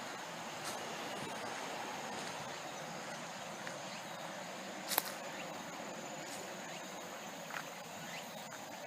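Outdoor forest ambience: a steady hiss of distant expressway traffic under a faint, high, steady insect trill. A few sharp clicks stand out, the loudest about five seconds in.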